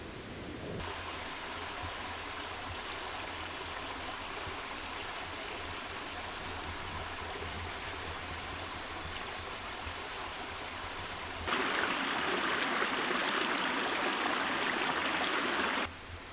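Steady rush of water, in two stretches: a moderate one starting abruptly about a second in, then a louder, fuller one near the end that stops sharply.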